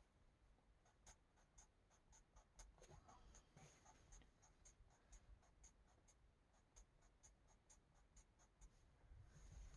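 Faint, quick strokes of a marker tip on a coloring-book page, a few short scratchy ticks a second, irregular, as small numbered sections are filled in.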